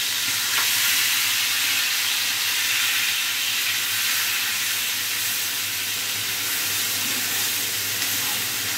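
Onion paste frying in hot oil in a pan, giving a steady sizzle.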